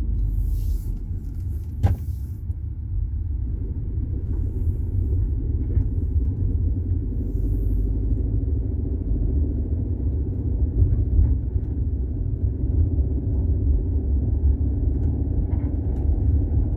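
VW Golf 6 TSI running: a steady low rumble, with a single sharp click about two seconds in.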